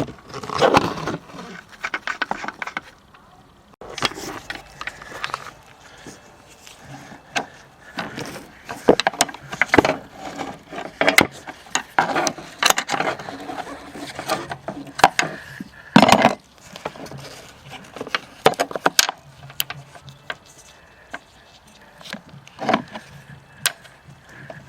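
Irregular metallic clinks, taps and knocks of hand tools and parts being handled while working on a car's front strut and suspension fasteners, with brief gaps between.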